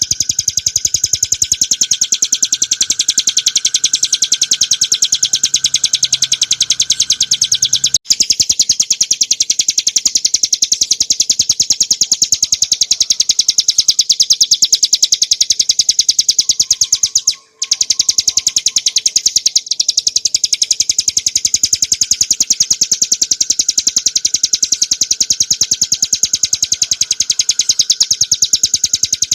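Ciblek gunung (bar-winged prinia) singing a rapid, unbroken run of high, sharp repeated notes, broken only briefly about 8 seconds in and again about 17 seconds in.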